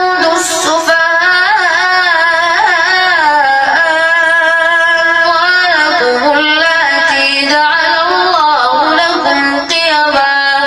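A boy's voice chanting Quran recitation in a slow, melodic style, holding long notes with ornamented turns and pausing briefly between phrases.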